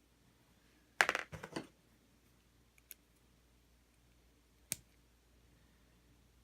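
Small plastic clicks and rattles from handling a robot vacuum's removed wheel: a quick cluster of clicks about a second in, then a single sharp click past the middle.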